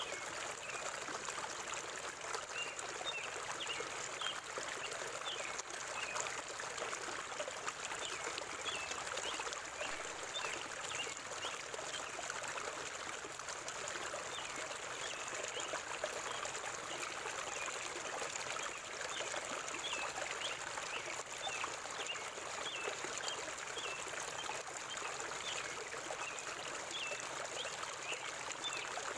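Forest river water flowing and babbling steadily, with many brief high chirps scattered over it.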